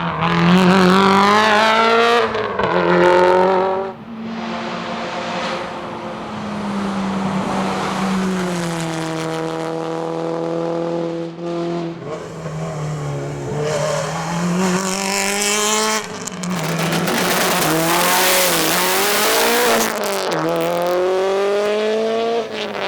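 Subaru Impreza WRX STI S204's turbocharged flat-four engine at full racing pace, its pitch climbing through the revs and dropping at each gear change and lift-off. About two thirds of the way through, a loud rushing noise rises over the engine for a few seconds.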